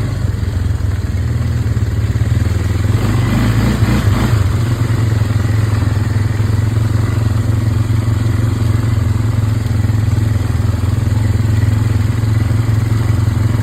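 Small off-road vehicle engine running steadily as it is ridden, with a brief rise in noise about three to four seconds in.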